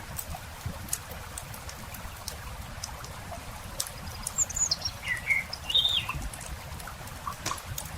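Wood campfire crackling, with short sharp pops scattered irregularly over a low rumble. A small bird chirps a few quick phrases about four to six seconds in.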